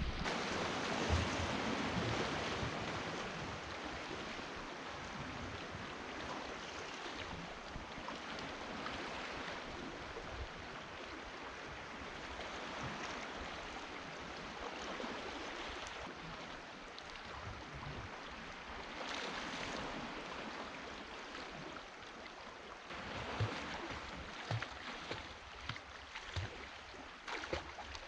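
Steady rushing noise of calm sea water and wind, with low buffeting of wind on the microphone, and a few sharp clicks and knocks in the last few seconds.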